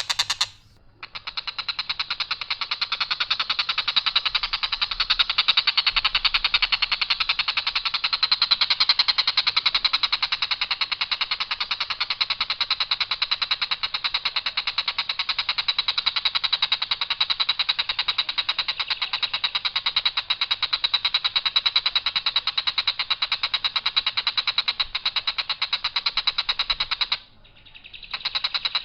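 Tengkek buto kingfisher giving a long, harsh, rapid rattling call on one unchanging line without turns, held almost without let-up. It breaks off briefly about a second in and again near the end.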